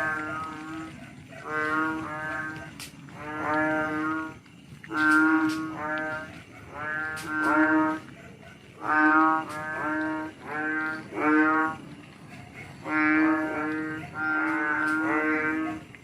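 Frogs croaking: repeated calls about half a second long, given in runs of two to four with short pauses between.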